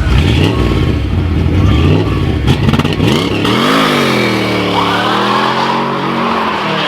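Car engine revving hard: after a few seconds its pitch swoops down, climbs again and then holds high and steady.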